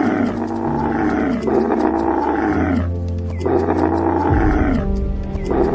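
A camel giving long, loud calls, several in a row with short gaps between them, over dark background music with low held notes.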